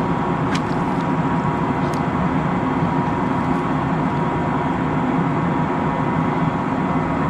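A steady mechanical drone with a constant whine, unchanging in pitch and level; a few faint light clicks in the first two seconds.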